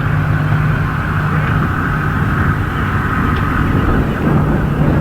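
A motor engine running steadily with a low, even hum that dips briefly about four seconds in.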